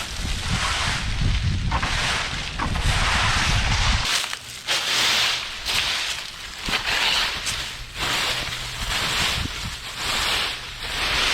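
Wind buffeting the microphone with a deep rumble that cuts off about four seconds in, over a rustling, hissing noise that swells and fades every second or so.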